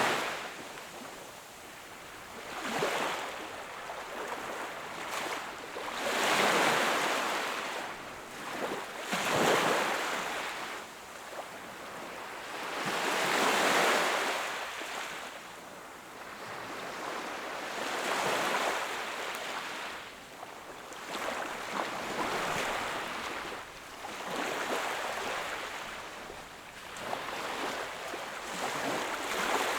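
Small sea waves breaking and washing ashore, each wash swelling and fading away every three to five seconds in an unhurried rhythm.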